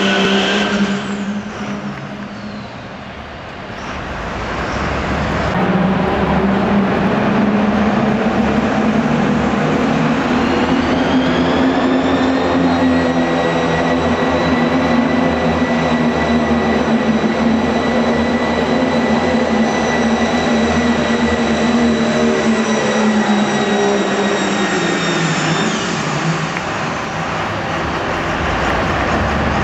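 Diesel pulling truck under full throttle: the engine builds from a brief lull a few seconds in and runs hard. A high turbo whistle climbs, holds steady for about a quarter of a minute, then winds down near the end as the engine drops off.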